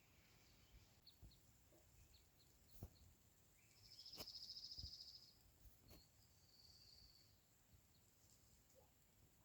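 Quiet outdoor ambience with a few faint high chirps and a short, high, buzzy bird trill about four seconds in, followed by a weaker one near seven seconds.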